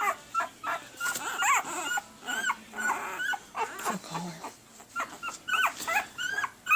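Week-old Pembroke Welsh Corgi puppies whimpering and squeaking: a string of short, high, rising-and-falling whines, one or two a second.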